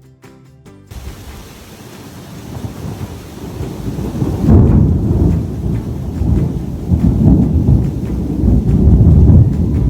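Thunderstorm: rain falling steadily with thunder rumbling, building up and rolling loudest about four and a half seconds in and again twice more toward the end.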